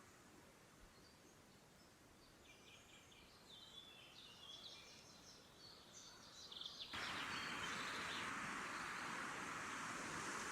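Small forest songbirds chirping and trilling in quick, high phrases. About two-thirds of the way through, a louder steady hiss cuts in suddenly and continues.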